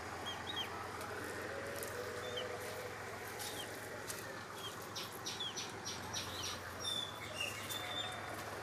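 Birds chirping: scattered short high chirps, a quick run of them about five seconds in, and a longer whistled note near seven seconds, over a steady background hiss.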